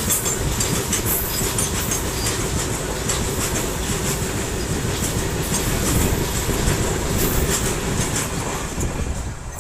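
Loaded freight train passing close by, steel wheels clattering over the rail joints with intermittent high squealing. The sound falls away near the end as the brake van at the tail goes by.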